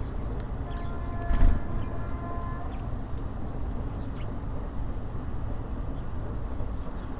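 Outdoor urban background with a steady low traffic rumble and small birds giving short high chirps. A held pitched tone sounds for about two seconds near the start, with a single loud knock partway through it.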